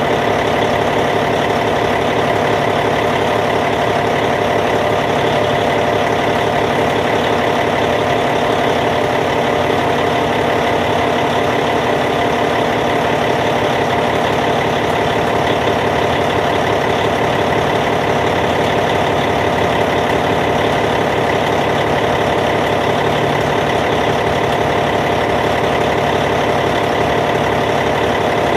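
Caterpillar C15 inline-six diesel engine of a D8T bulldozer idling steadily.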